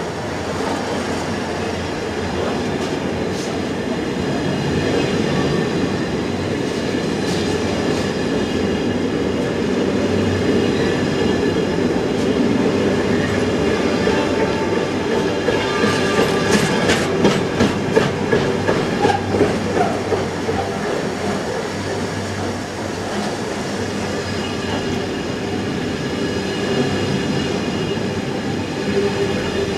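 Container flat wagons of an intermodal freight train rolling past close by, a steady rumble of wheels on rail. About halfway through, a quick run of sharp clickety-clack as wheelsets cross rail joints.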